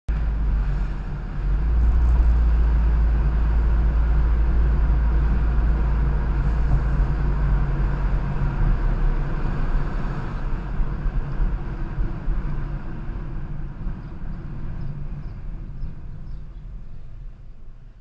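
Steady low rumble of a car on the road, engine and tyre noise with a wide hiss, as heard through a dash cam microphone. It starts suddenly and eases off over the last few seconds.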